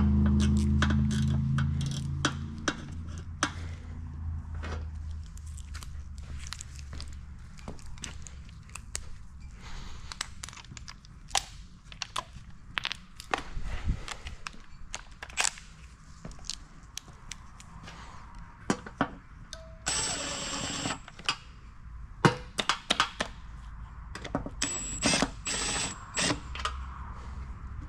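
Irregular clicks and clinks of hand tools against metal engine parts during engine assembly, with a short hissing burst about two-thirds of the way through.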